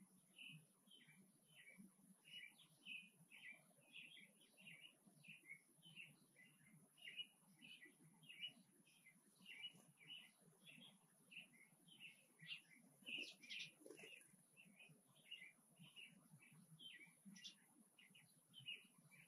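Faint bird chirping: a steady run of short, high chirps, about two or three a second, over a faint steady high hiss.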